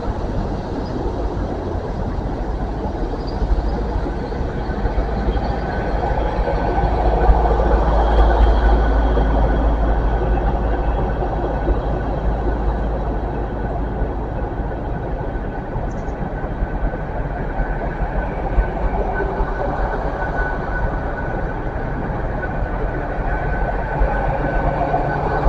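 Passenger train running at a station platform: a steady low rumble with a faint whine, swelling slightly about seven seconds in.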